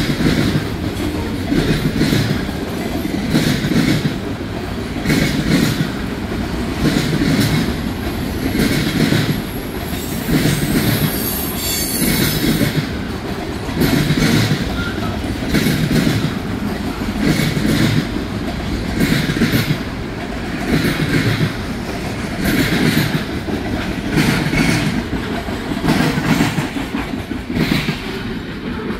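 Freight train of trash container cars rolling past at trackside: a steady, rhythmic clatter of wheels and rail joints, with a brief high-pitched wheel squeal about ten seconds in.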